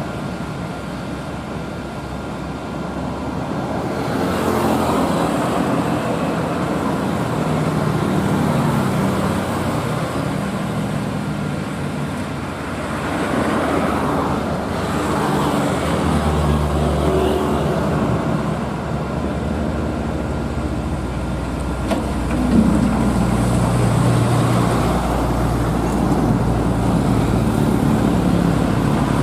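Heavy diesel truck engines labouring up a steep climb, with road traffic noise; the engine note shifts up and down several times, and the low rumble grows heavier about halfway through. A sharp knock sounds about 22 seconds in.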